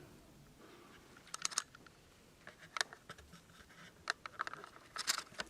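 Faint scattered clicks and taps in small clusters over a quiet room background.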